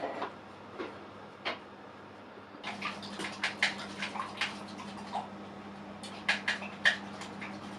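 Irregular light clicks and taps, coming thicker and faster from about a third of the way in, over a steady low hum.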